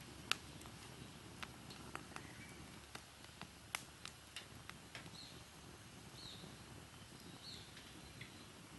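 Wood fire burning in a Picogrill fire stand, crackling with irregular sharp pops over a low steady rumble; the loudest pop comes just after the start, another a little before the middle.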